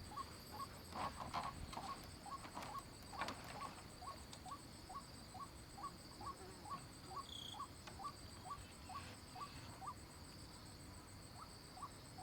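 Faint animal calls: short chirps repeated about three times a second, pausing briefly near the end, over a steady high insect drone. A few sharp knocks in the first few seconds.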